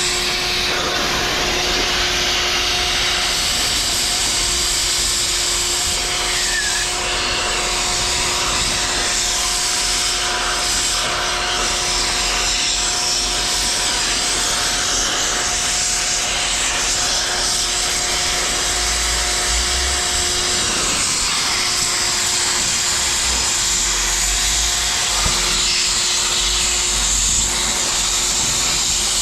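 Steady, continuous hissing with a constant low hum underneath, typical of an oxy-fuel cutting torch burning through scrap metal.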